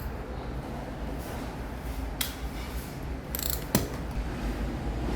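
Metal hand tools clicking and clinking a few times, over a steady low hum.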